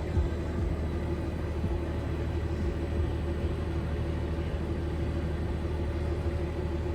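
Steady low rumble and hum of the Pikes Peak Cog Railway train running, heard from inside, with a knock just after the start.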